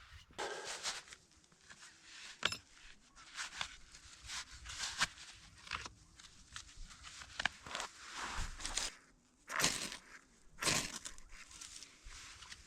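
Irregular crunching, rustling and tearing, with sharp snaps now and then, the loudest two near the end: something being handled, crushed or torn by hand.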